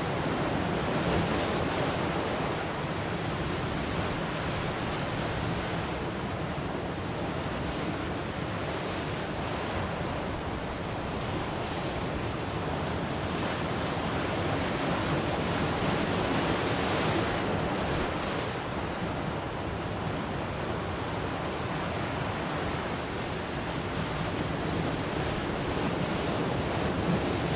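Ocean surf washing steadily, swelling into a louder wash of breaking waves every several seconds.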